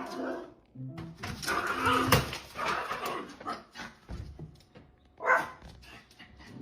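A dog barking, with one loud bark near the end and a sharp knock about two seconds in.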